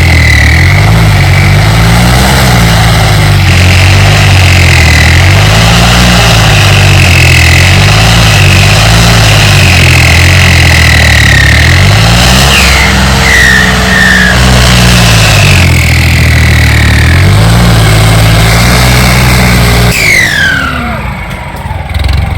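Turbocharged tractor diesel engine running hard under load on the plough, its low note rising and falling with the load, and a turbo whistle riding above it. Near the end the engine eases off and the whine falls away.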